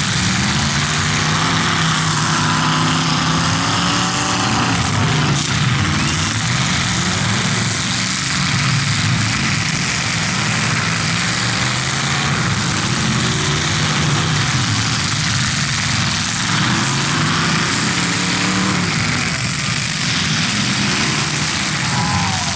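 Several demolition derby cars' engines running loudly together, revving up and falling back again and again.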